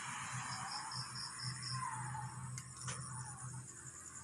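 Faint insect chirping: a quick run of high, evenly spaced pulses in the first half, over a low hum.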